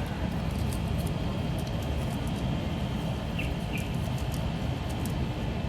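Steady low background hum, such as an air conditioner or distant traffic, with faint light clicks and two tiny chirps a little past the middle.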